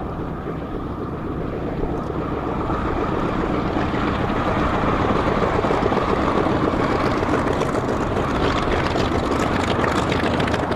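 Unlimited-class piston-engine propeller racing plane flying the course, its engine growing louder over the first few seconds as it closes in, then holding loud.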